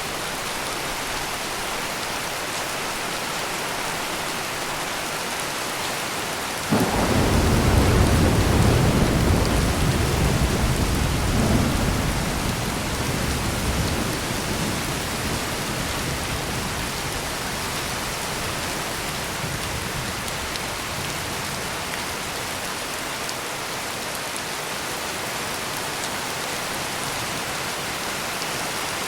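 Steady heavy rain with a single thunderclap that breaks in suddenly about a quarter of the way in. It rumbles low for several seconds, swells again briefly, then dies away under the rain.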